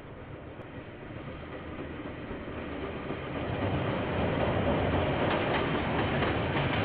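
A train approaching on the railway line, its rumble growing steadily louder over about four seconds and then holding as it passes. In the last couple of seconds the wheels click over the rail joints.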